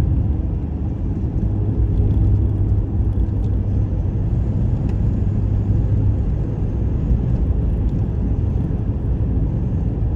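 Road noise inside a moving car: a steady low rumble of engine and tyres, with a low hum that is stronger for the first half and eases about six seconds in.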